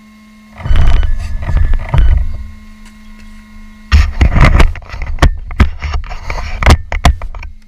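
Electric Traxxas Summit RC truck driving over forest ground: surges of motor and drivetrain noise over a steady hum, then from about halfway a rapid run of sharp clicks and knocks as the tyres and chassis hit twigs and debris.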